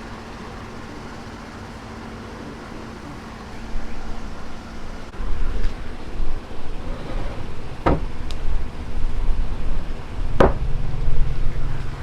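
A steady low hum, then from about four seconds in a louder uneven rumble, with two sharp knocks about two and a half seconds apart.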